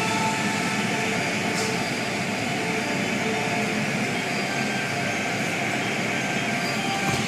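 Car wash machinery running: a steady rushing noise with a low hum.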